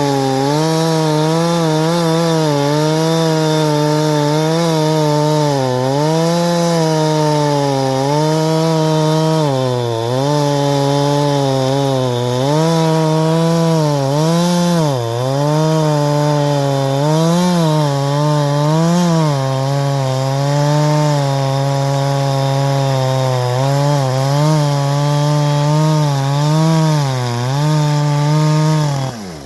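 Ported Farmertec G372XT two-stroke chainsaw running at high revs while cutting wood. Its pitch dips repeatedly and recovers as the chain is loaded in the cut. The sound breaks off abruptly near the end.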